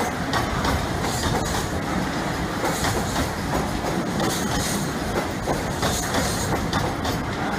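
Railway train running past, a steady rumble with repeated clicks of the wheels over the rail joints.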